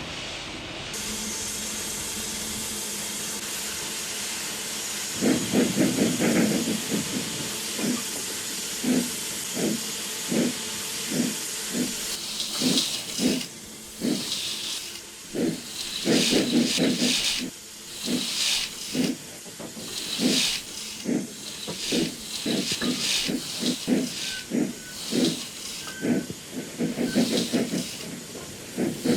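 Austerity 0-6-0 saddle tank steam locomotive working hard with a loaded train: a steady hiss of steam, then slow, heavy exhaust beats about one a second, broken three times by a quick flurry of beats as the driving wheels slip on greasy rails.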